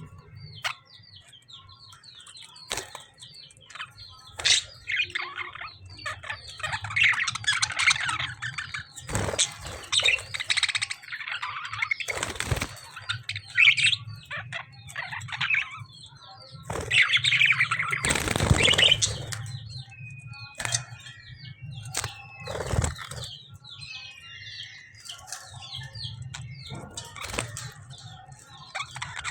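Budgies and lovebirds squabbling: a busy stream of rapid high chirps, broken by sudden bursts of wing flapping and scuffling, the loudest about eighteen seconds in.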